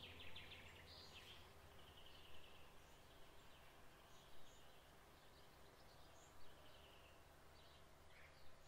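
Faint birdsong: short chirps and trills at irregular intervals over a low steady hum that slowly fades.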